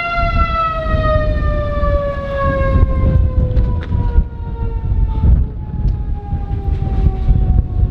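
Outdoor tornado warning siren winding down, its single wailing tone falling slowly and steadily in pitch. Heavy wind buffets the microphone underneath, with a few brief knocks.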